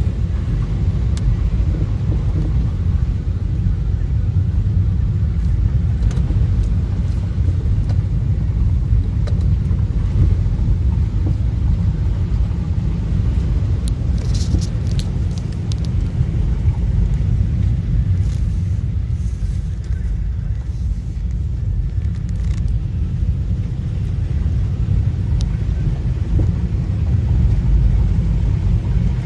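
Steady low rumble throughout, with a few faint clicks about halfway through.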